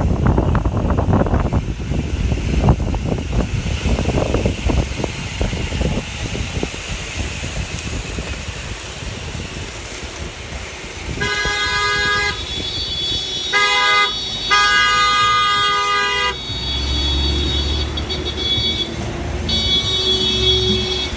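Wind buffeting the microphone, then a vehicle horn honking about halfway through: a long toot, a short one, and another long one. A lower steady tone follows near the end.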